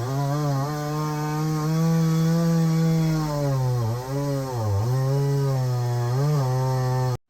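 Two-stroke chainsaw running at high revs through wood, its pitch sagging several times as the chain bites and recovering between cuts; it stops abruptly near the end.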